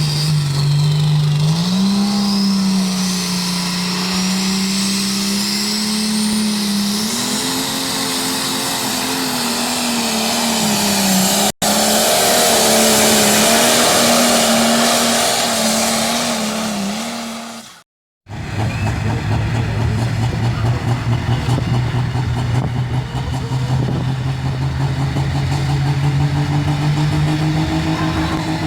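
Tractor-pull engine running hard at high revs, its pitch wavering with a faint rising whine early on. After a sudden cut about two-thirds of the way through, an engine runs more steadily at a lower pitch.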